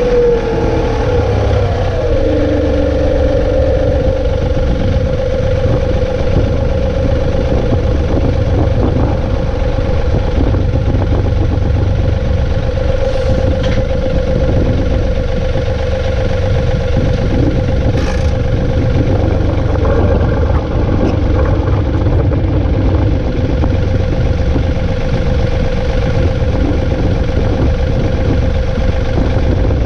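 Compact tractor's diesel engine running steadily, a constant rumble with a steady whine above it, plus a couple of brief clanks partway through.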